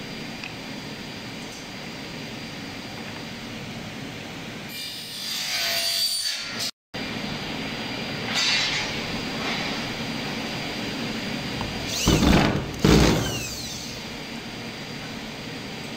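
Hand-held tools working wood: a few short, loud passes on the wood, the loudest two close together about 12 seconds in, over a steady background hiss.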